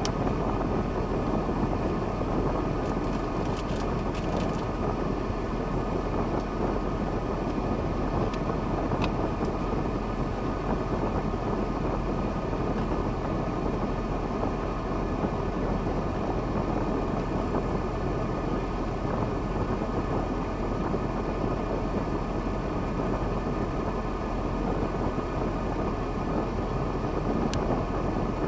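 KAMAZ timber truck's diesel engine running steadily, with a few faint clicks.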